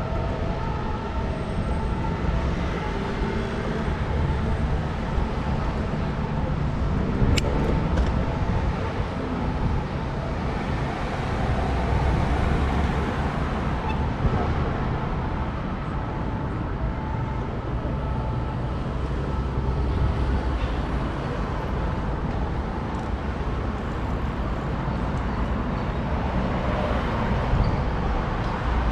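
Steady city street traffic noise, cars passing, with some voices mixed in and a single sharp click about seven seconds in.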